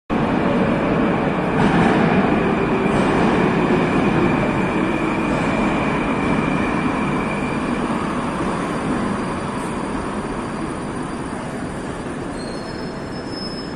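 Moscow metro train pulling out of an underground station: the rumble of its wheels and motors is loudest about two seconds in and then fades slowly as it leaves. A steady high whine runs through the first several seconds.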